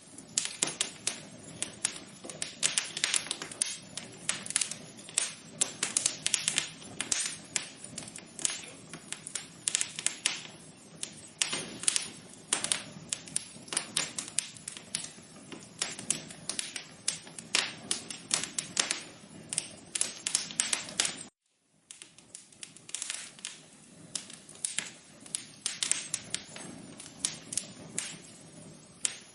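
Wood fire crackling in a fireplace: a dense, irregular run of sharp pops and snaps over a soft hiss. It cuts out completely for about half a second around twenty-one seconds in, then resumes.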